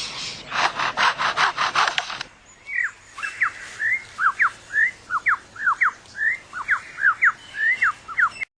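Superb lyrebird mimicking. For about two seconds it gives rapid rasping strokes, its imitation of foresters' chainsaws at work. A quick run of clear whistled notes follows, each sliding down or up, and the sound cuts off suddenly near the end.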